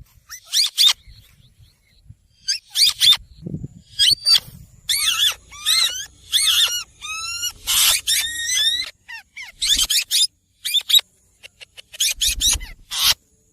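Green ringneck parakeet calling: a string of short, high-pitched squawks and chirps with gaps between them, including a quick run of repeated notes partway through and a louder, harsher call just after it.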